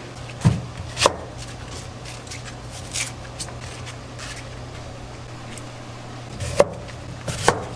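Scattered sharp knocks and clatters of kitchen work, like utensils or a knife striking a board, over a steady low hum of kitchen ventilation.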